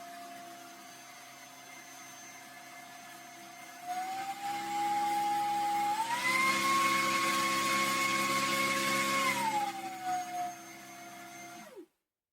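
Electric fan motor of a household appliance whining steadily, stepped up to a higher speed about four seconds in and again about two seconds later. At the top speed it is louder, with more rushing air. It then steps back down and switches off near the end.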